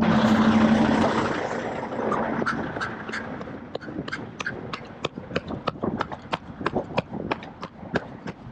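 A person's running footsteps, quick and even at about three strides a second, growing more distinct from about two seconds in. In the first second or two a louder rushing noise with a low steady hum covers them.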